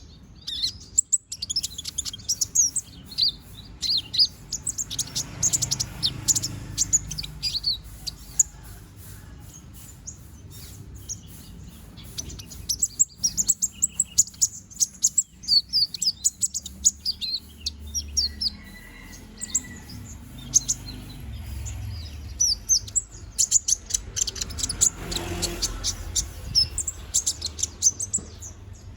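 A konin songbird singing vigorously in long bursts of rapid, high-pitched chirps and trills, with short pauses between bursts. The bird is moulting and growing its feathers back.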